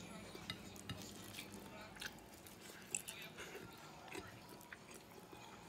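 Faint close-up chewing and wet mouth sounds, with scattered small clicks and one sharper click about three seconds in.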